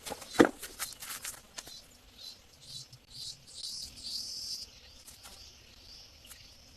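Outdoor ambience of insects and birds chirping, with a few sharp knocks or clicks in the first two seconds, one much louder than the rest, then a stretch of higher rustling chirps that dies down near two-thirds of the way through.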